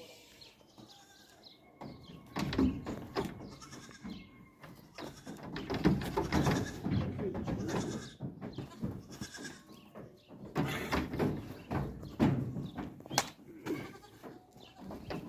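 A flock of sheep bleating, with several long calls that overlap. They are loudest about halfway through and again a few seconds before the end.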